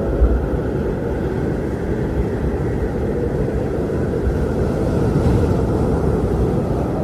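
Strong wind blowing with a steady, deep rush and low buffeting gusts, swelling a little around five seconds in.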